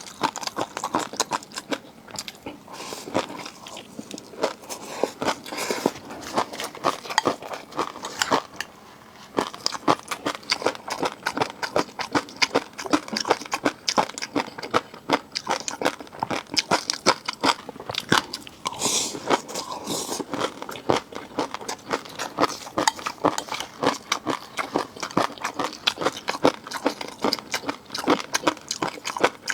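Close-miked eating of seafood: rapid, irregular crunching, biting and wet chewing, with a short pause about nine seconds in.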